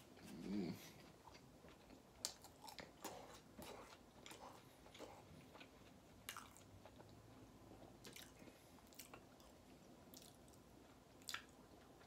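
Close-miked chewing of a mouthful of food, faint, with many small wet mouth clicks scattered throughout. There is a brief hummed 'mm' about half a second in.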